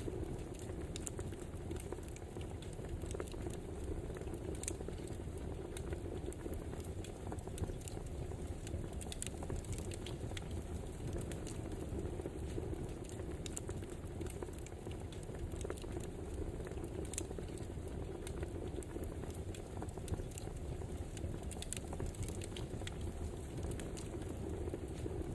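Wood fire burning: a steady low hiss with irregular sharp crackles and pops.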